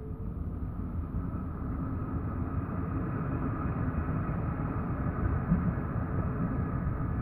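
Basel city tram running on its rails, a low rumble with a faint steady motor hum that grows louder over the first couple of seconds as it picks up speed, then holds steady.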